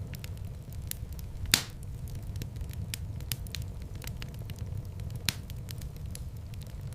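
Wood fire burning over a steady low rumble, with frequent small crackles. A sharp loud pop comes about one and a half seconds in, and a smaller one about five seconds in.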